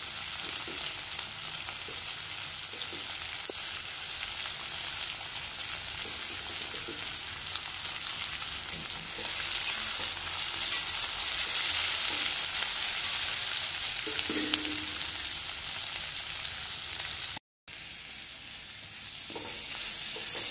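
Sliced onions and capsicum sizzling in hot oil in a kadai, stirred with a metal spatula: a steady frying hiss that grows a little louder about halfway and cuts out for a split second near the end.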